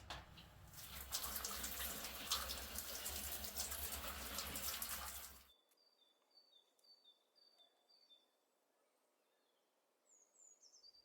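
Water running steadily from a tap, cut off suddenly about five and a half seconds in. After it, a bird chirps faintly, a short note repeated about twice a second, with a couple of high falling chirps near the end.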